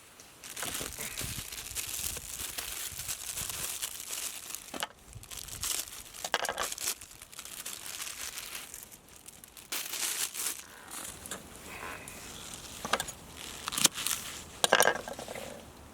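Crinkling and rustling of something being crumpled and handled, with irregular sharp crackles and a few louder bursts near the end.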